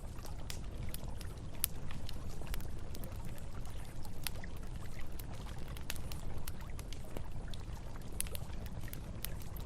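Wood campfire crackling, with frequent irregular sharp pops, over the steady low rush of a flowing river.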